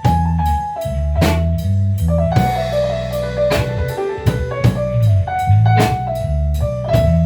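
A band playing a song: a drum kit keeps the beat with a strong hit about once a second under a bass line and held chords, with a cymbal wash near the middle.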